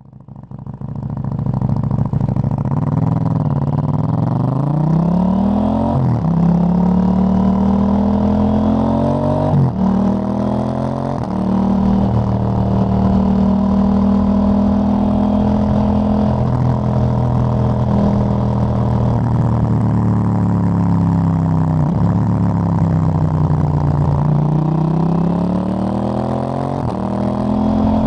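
KTM 890 Duke GP's parallel-twin engine through a Dominator HP8 slip-on exhaust with its dB-killer fitted, under way: it pulls up through the gears with sharp upshifts about 6 and 10 seconds in, holds a steady cruise, eases off, then accelerates again near the end.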